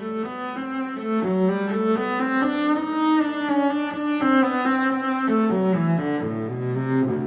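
Instrumental background music: a bowed-string piece with a low, cello-like melody moving from note to note about every half second.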